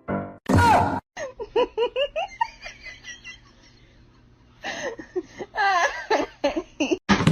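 A person laughing in quick repeated bursts, in two bouts with a short lull between them, after a brief loud cry about half a second in.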